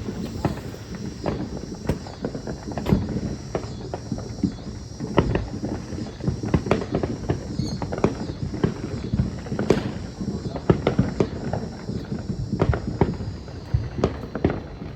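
Fireworks going off around the area: an irregular run of many pops and bangs, several a second, the loudest about ten seconds in.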